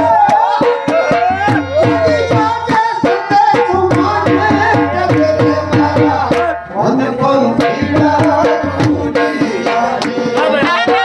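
Gujarati folk music: a sarnai (double-reed pipe) plays a melody full of sliding ornaments over a fast, steady dhol beat, with a short drop in the texture about six and a half seconds in.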